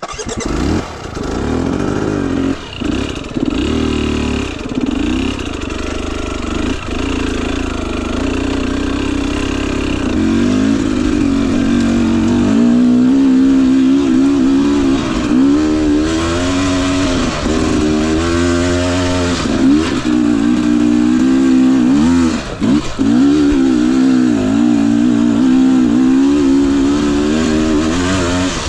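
Two-stroke engine of a Husqvarna TE 250i dirt bike, revved up and down again and again while it works through deep mud. The revving gets louder and busier about a third of the way in.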